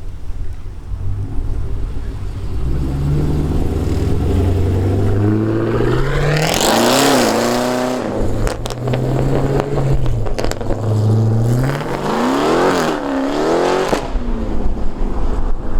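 Car engine revving hard, its pitch climbing and falling in two big sweeps, about six seconds in and again about twelve seconds in, over a low running rumble.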